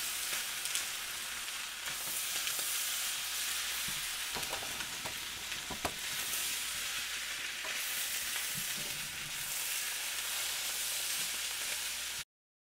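Pork fried rice sizzling steadily in a hot wok, with a few light clicks from the utensil and bottle about halfway through and stirring sounds. The sound cuts off suddenly near the end.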